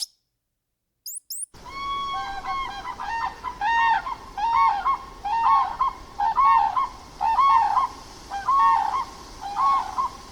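Farm poultry calling: after a couple of short high chirps, a run of loud repeated calls starts about a second and a half in. The calls come roughly one every second, with several birds overlapping.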